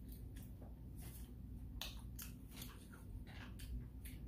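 Close-up mouth sounds of a person chewing food: irregular wet clicks and smacks, roughly two or three a second.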